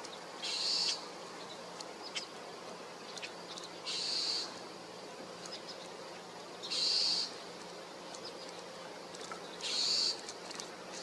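A bird's harsh, raspy call, repeated four times about every three seconds, each call about half a second long.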